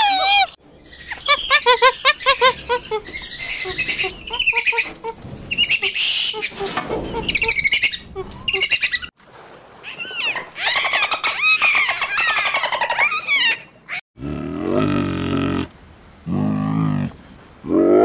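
A run of different animal calls, one after another: high warbling chirps first, then whistling calls, and lower pitched calls in the last few seconds.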